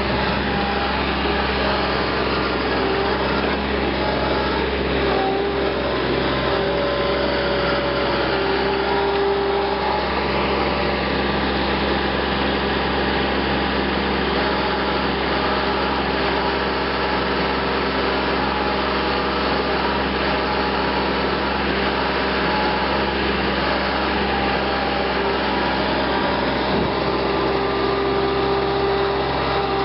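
Power wire brush working on the steel rim of a 1953 Massey Harris Pony tractor, cleaning it up. It is a steady motor whine over continuous scraping, with the pitch shifting slightly as the load changes.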